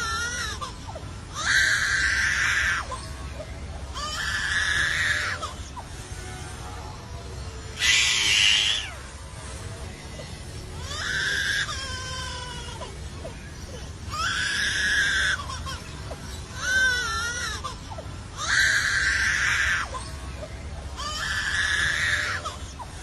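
A bird calling over and over: about eight wailing cries, each roughly a second long and a few seconds apart, some with a quavering pitch, sounding like a crying baby.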